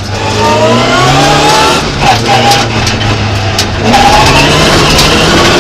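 Opel Ascona rally car's engine heard from inside the cabin, revving hard under acceleration: its pitch climbs, drops back about two seconds in at a gear change, then climbs again. A few sharp clicks sound over it.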